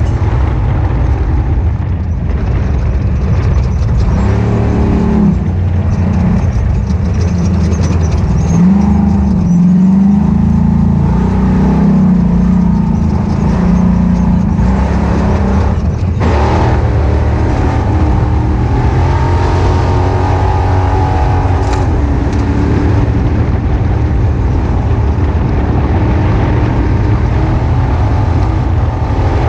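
Ultra4 off-road race car engine running hard, its revs rising and falling with the throttle. There is a sharp knock about sixteen seconds in.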